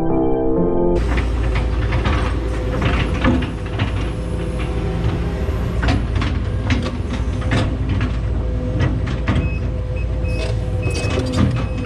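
Case 210 excavator running, its diesel engine humming steadily under many sharp metal clanks and rattles. A short series of high alarm beeps sounds near the end.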